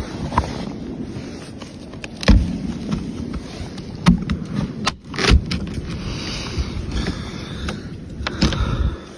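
Wind buffeting the microphone in a blizzard: a rough, uneven rumble, broken by four sharp knocks or thuds.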